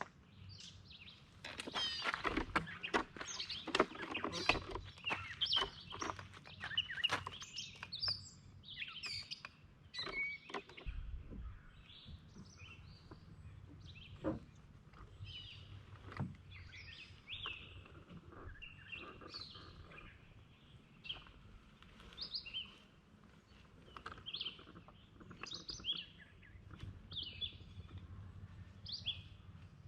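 Wild birds chirping in short repeated calls, with a run of clicks and knocks over the first dozen seconds or so.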